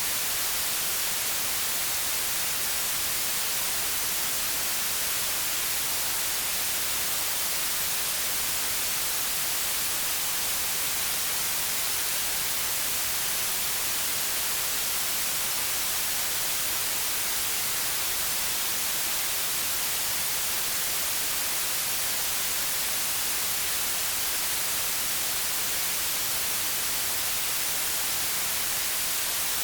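Steady white noise: an even, unbroken hiss, strongest in the treble, with no changes.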